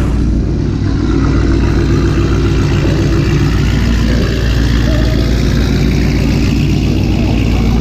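Car engine running steadily with a deep, even rumble that holds the same pitch throughout.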